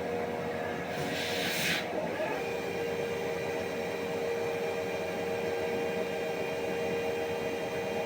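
CNC lathe running, with a steady whine. A brief hiss comes about a second in, and the whine shifts slightly in pitch at about two seconds.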